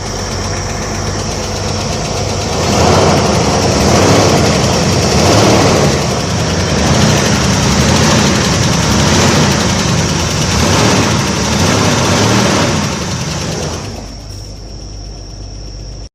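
A vehicle engine running steadily, a low rumble that grows quieter about two seconds before the end.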